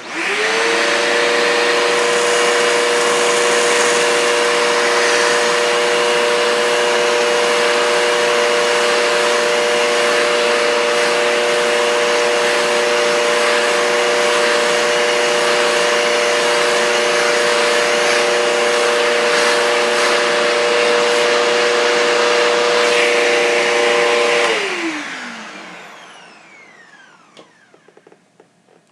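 Bissell upright vacuum cleaner switched on and running in straight-suction mode through its hose with the dusting brush attached: the motor whines up to speed, runs steadily with a rush of air through the hose, then is switched off about 24 seconds in and winds down with a falling whine.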